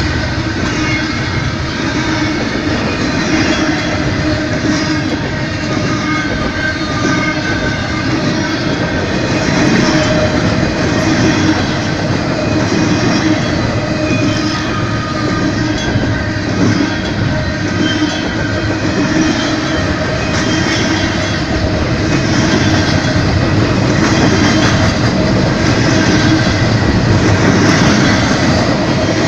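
Canadian Pacific train cars rolling past over the crossing, steel wheels rumbling and clicking on the rails, with short high squealing tones from the wheels. It runs steady and loud throughout.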